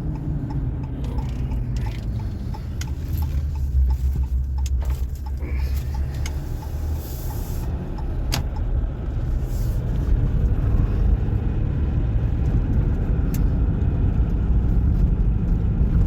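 A car driving, heard from inside the cabin: a steady low rumble of engine and road noise. Over the first few seconds there is a light, evenly spaced ticking, and now and then a sharp click.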